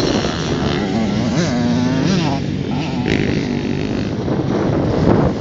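Enduro motorcycle engines revving, the pitch rising and falling repeatedly.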